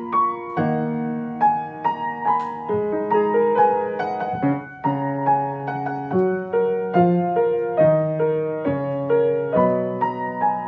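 Solo piano playing an improvised arrangement, chords and melody notes struck about once or twice a second. Near the end a chord is held and left to ring.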